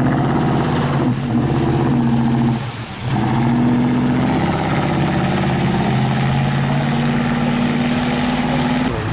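A car engine running at idle, its pitch shifting slightly, with a brief drop in level about three seconds in.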